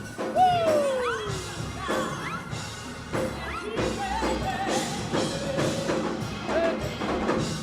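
Live gospel praise band music playing a worship song: drum hits keep the beat while sliding, gliding notes sound above.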